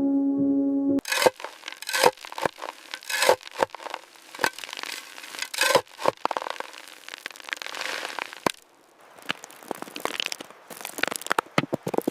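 Background music stops abruptly about a second in, giving way to an irregular run of sharp cracks and crunches from hands-on building work on the frozen site.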